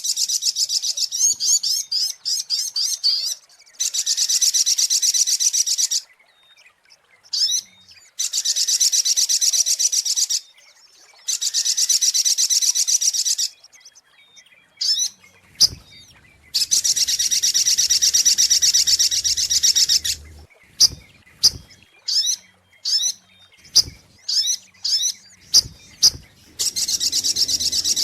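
Sogok ontong bird song played as a lure recording: a rapid, high trill lasting two to three seconds, repeated after short pauses, with quick sharp single notes between the trills. A few brief low knocks come through during the second half.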